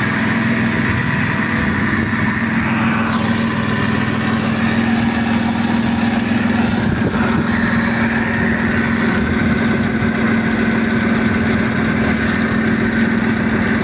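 Mitsubishi Galant's engine idling with the air-conditioning compressor running, a steady drone, while the A/C system is being charged with R134a refrigerant.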